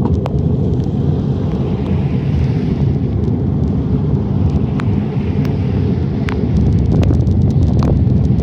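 Wind buffeting the microphone of a phone riding on a moving bicycle's handlebars: a steady, loud low rumble with scattered sharp ticks.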